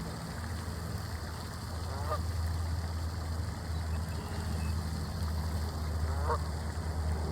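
Two short honking bird calls about four seconds apart, over a steady low rumble.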